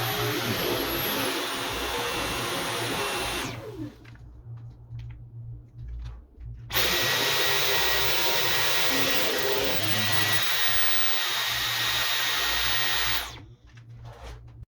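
Dyson V11 cordless stick vacuum running with a steady high whine. It stops about three and a half seconds in, starts again abruptly about three seconds later, and stops again near the end.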